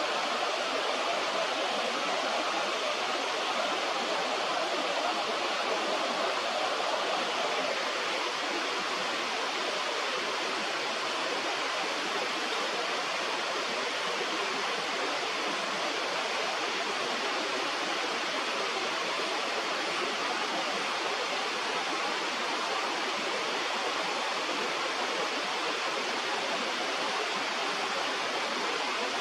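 Steady rush of flowing river water, an even hiss without breaks, dropping slightly in level about seven seconds in.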